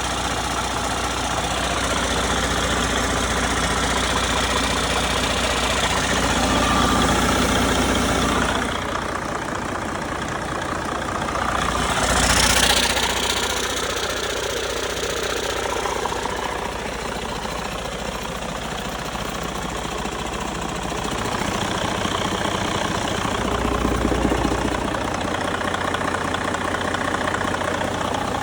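Detroit DD15 inline-six diesel engine idling steadily, with a brief hiss about twelve seconds in.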